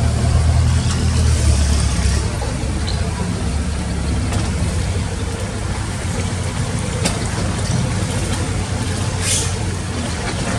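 Heavy diesel engine of earth-moving machinery running, louder for about the first two seconds, with a short hiss about nine seconds in.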